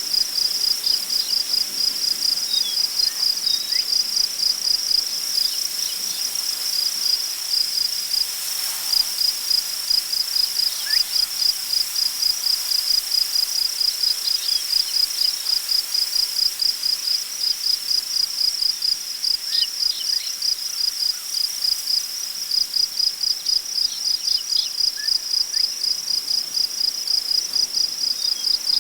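Crickets chirping in a steady, even rhythm, a few chirps a second, with a few faint short bird calls and a soft swell of wind through tall grass about six to nine seconds in.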